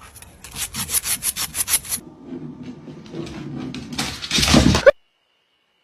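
Dog's claws scrabbling on a slippery hard floor: a fast run of sharp scratches, about eight a second, then quieter scraping and a louder scraping rush that cuts off abruptly about five seconds in.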